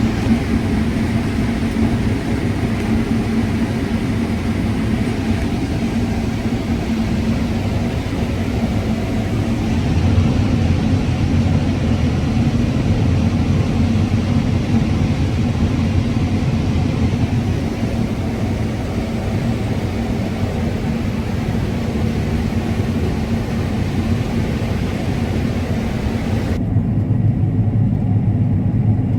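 Combine harvester running steadily while harvesting corn: a continuous low engine and machine rumble with a steady hum. A higher hiss over it drops away near the end.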